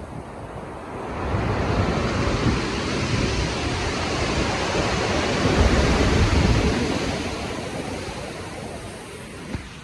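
Stormy sea waves surging and breaking. One big swell builds about a second in, is loudest just past the middle, then washes out and fades near the end.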